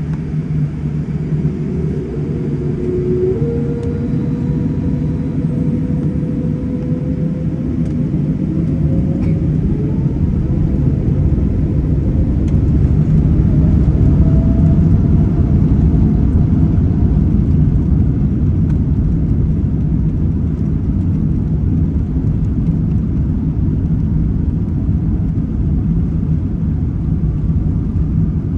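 Airplane engines during takeoff: a loud, steady low rumble with a faint whine rising in pitch over the first several seconds, the rumble building to its loudest about halfway through.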